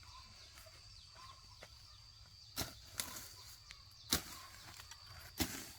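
Four sharp strikes of a hand tool on the ground or on cane, spaced about a second apart in the second half, over a faint outdoor background with a steady high tone.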